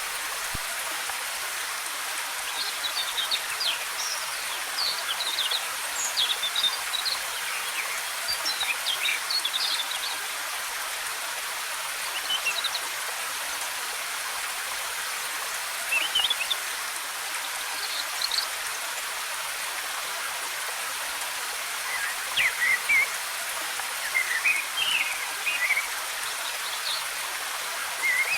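Steady rush of cascading waterfall water with forest birds chirping over it in short clusters of high notes, coming and going throughout.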